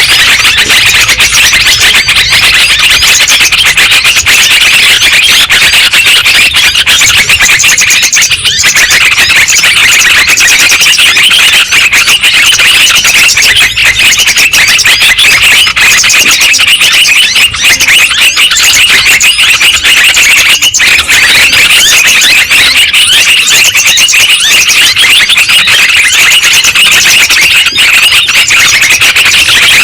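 Yellow-vented bulbuls (trucukan) calling in a loud, dense, unbroken stream of chattering notes, several voices overlapping, played as a bird-lure recording.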